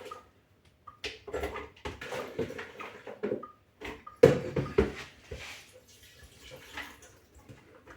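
Chopped coconut pieces and coconut water being tipped into a blender jug: irregular clattering and splashing, the sharpest knock about four seconds in, dying down near the end.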